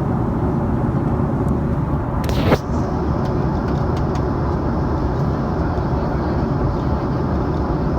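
Steady roar of an Airbus A310-304 airliner's cabin in flight, engine and airflow noise heard from an economy seat. About two seconds in there is a short scuffing noise.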